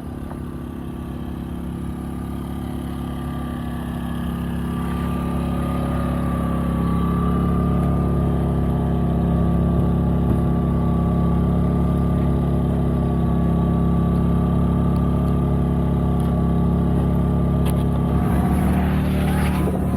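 Portable generator engine running steadily at low idle, growing louder over the first several seconds and then holding steady, with a thin steady whine above the engine note.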